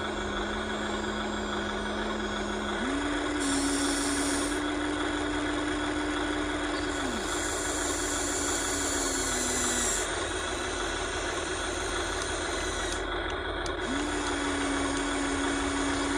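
Small electric motors of a toy RC excavator running steadily, with a whine that steps up in pitch about three seconds in, drops around seven seconds, and rises again near the end as the controls are worked.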